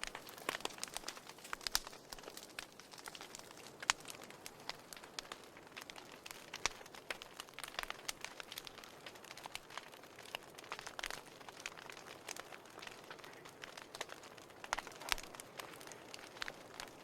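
Burning firewood crackling, with irregular sharp pops and snaps of varying loudness over a soft steady hiss.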